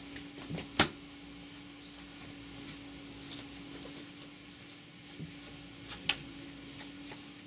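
A few sharp clicks and knocks over a steady low hum in a small room, the loudest click about a second in.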